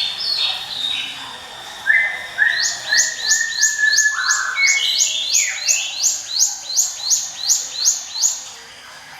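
Ciblek gunung (a prinia) singing its 'ngiwit wit' song: a few varied notes, then from about two seconds in a fast, even run of rising whistled notes, about three a second, that stops near the end.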